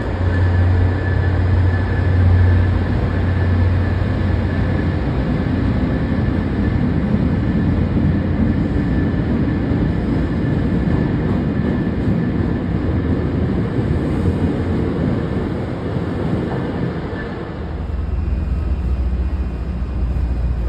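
MBTA commuter rail train running through the station: a steady loud rumble of wheels and running gear with a thin high whine. Near the end the rumble eases into the steady low hum of a standing train.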